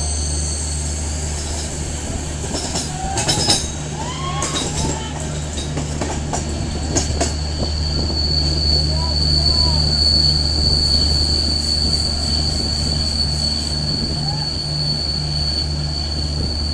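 Train running on rails: a steady low rumble with a rhythmic pulse, a high steady wheel squeal that grows stronger in the second half, and a few sharp clanks about three to four seconds in and again around seven seconds.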